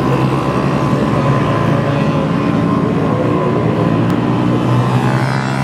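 Several Honda Super Cub 50cc race bikes' small single-cylinder engines buzzing steadily at high revs as they lap the circuit, blending into one continuous drone, with some pitch changes near the end as bikes pass or shift.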